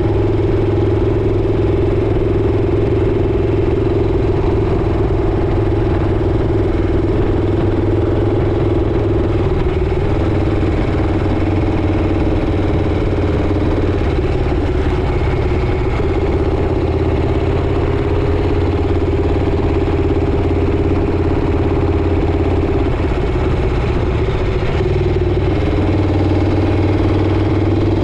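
Motorcycle engine running steadily at cruising speed, its pitch dropping and rising slightly a few times.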